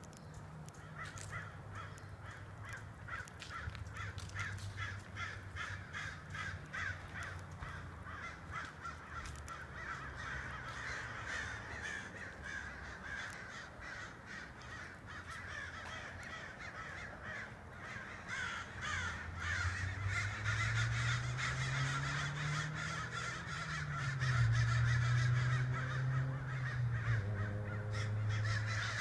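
A large flock of crows cawing continuously, many harsh calls overlapping. A low drone runs underneath and grows louder in the second half, bending in pitch about two-thirds of the way through.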